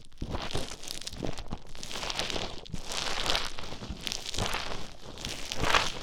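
Play Foam being squished and mixed with an ear pick close to the microphone: a continuous fine crackling and crinkling that swells about once a second.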